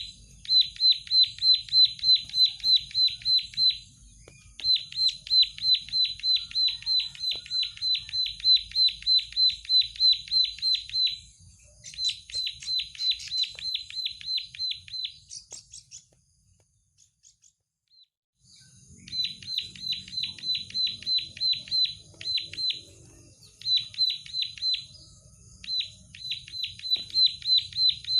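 Plain prinia (prenjak sawah) singing a fast string of sharp repeated notes, about four a second, in several runs broken by short pauses, with a gap of about two seconds in the middle.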